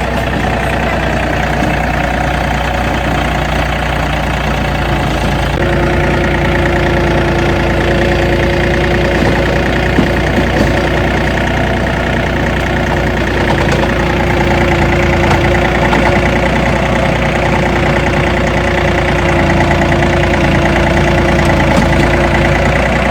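John Deere tractor engine running steadily while it drives a rotary tiller through the ground. A steady whine joins in about five seconds in and holds until near the end.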